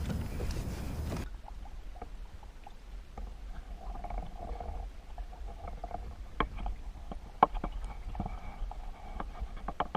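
Faint scattered clicks and knocks of fishing gear being handled in a kayak, with a few sharper clicks in the second half.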